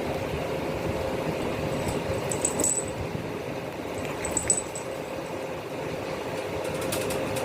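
A steady mechanical hum with a faint steady tone, and small metallic jingles twice, about two and a half and four and a half seconds in.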